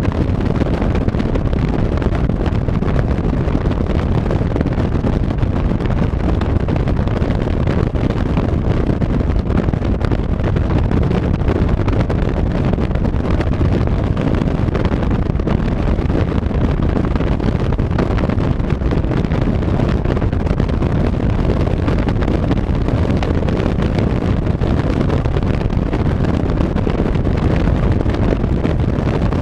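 Car driving at a steady pace: continuous road and engine rumble with wind buffeting the microphone.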